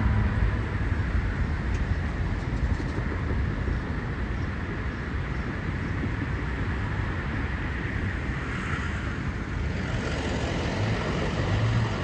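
Union Pacific freight train rolling along the track, a steady low rumble mixed with street traffic.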